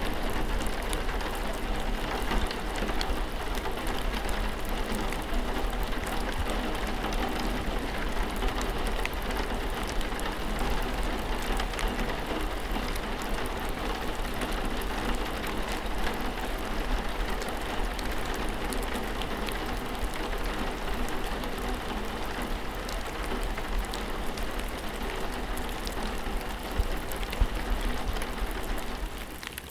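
Steady rainfall, an even hiss with many separate raindrop hits ticking through it. It dips briefly in level near the end.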